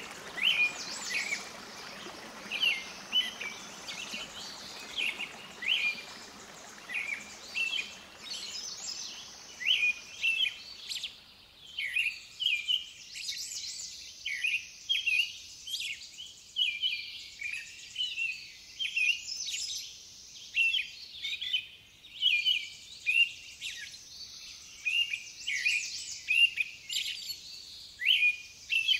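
Birdsong: many short chirps and trills, one after another, over a faint hiss that fades out about eleven seconds in.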